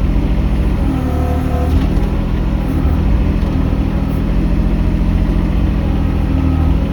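Mini excavator engine running steadily at working speed, with short whines coming and going over it.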